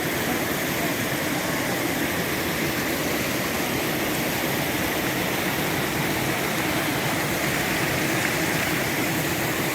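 Stream water rushing steadily, a continuous even noise with no breaks.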